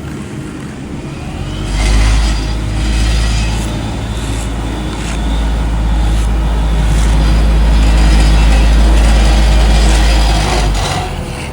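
Heavy diesel construction machinery running at an asphalt paving site, with a deep low rumble that builds about two seconds in and falls away near the end, and a few clanks.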